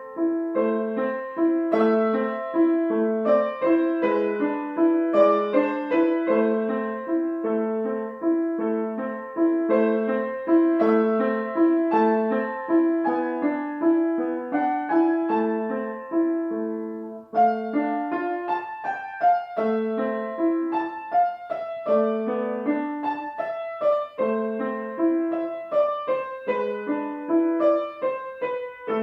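Solo piano playing a slow lyrical piece, a steadily repeating broken-chord accompaniment under a singing melody line.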